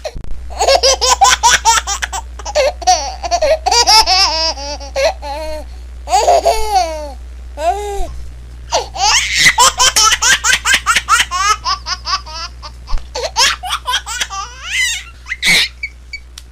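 Baby laughing in rapid, high-pitched bursts of giggles and belly laughs, with a switch to a second laughing clip about halfway through.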